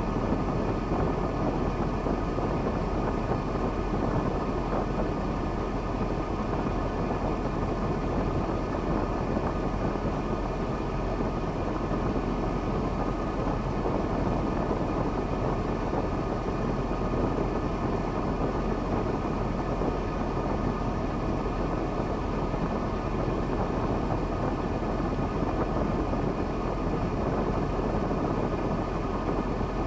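KamAZ timber truck's diesel engine running steadily.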